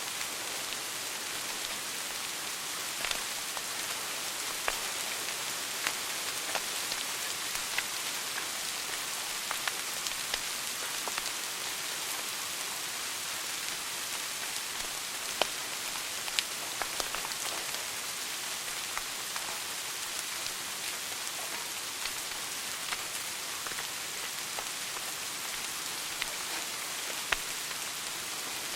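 Wood fire crackling in a fireplace: a steady hiss with irregular sharp pops scattered throughout.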